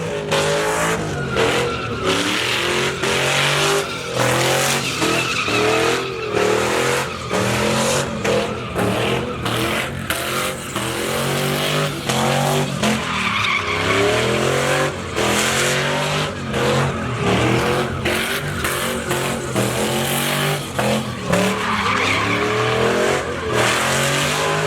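A pickup truck doing a burnout: the engine is held at high revs that rise and fall repeatedly, and the spinning rear tires squeal and hiss against the pavement.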